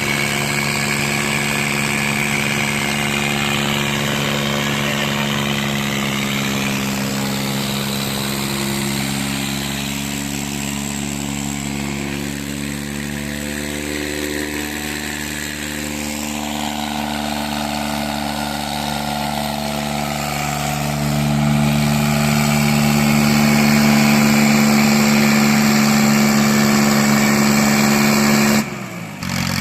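Diesel tractor engines running hard under heavy load in a tug-of-war pull, a steady engine drone that grows louder in the second half and cuts off suddenly near the end.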